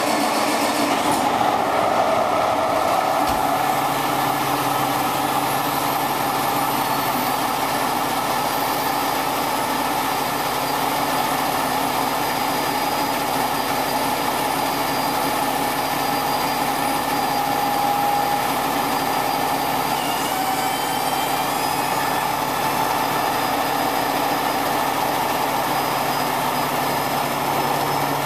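Heavy truck engine running steadily, with a low hum that comes in a few seconds in.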